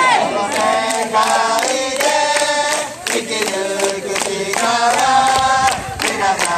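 Baseball fans' cheering section singing a player's cheer song a cappella in unison, many voices together, with sharp claps keeping the beat.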